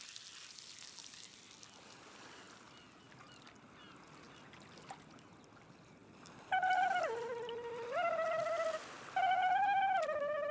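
Water trickling faintly, then a high, wavering tone that steps down in pitch, sounded three times.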